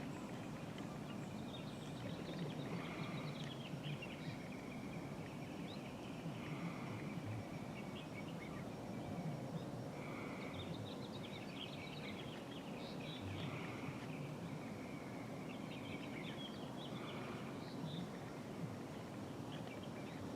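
Birds chirping in short bursts every few seconds over a steady low outdoor background noise.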